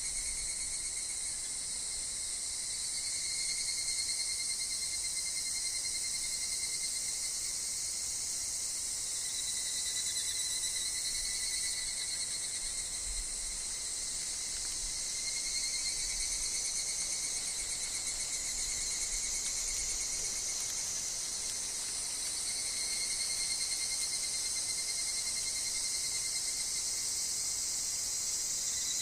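Continuous chorus of singing insects in several steady high-pitched layers that shift slightly in pitch, with a faint low wind rumble that swells now and then.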